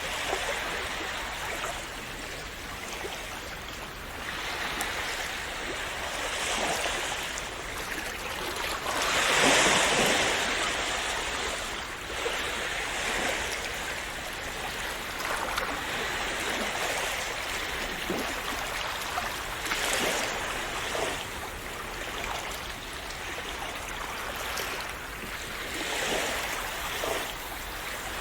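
Small sea waves washing and splashing against the shore, with swells coming and going; the biggest wave breaks about ten seconds in.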